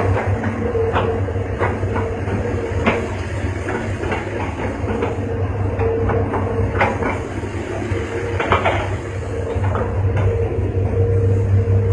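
Hitachi hydraulic excavator's diesel engine running steadily, with scattered metallic knocks and clanks from the machine at work.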